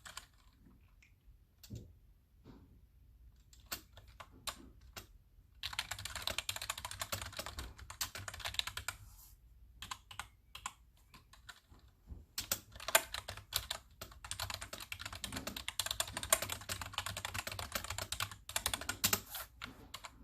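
Typing on a computer keyboard: scattered keystrokes at first, then a fast run of continuous typing from about six seconds in, a pause with a few keystrokes, and another long fast run from about twelve seconds in, ending with a brief burst.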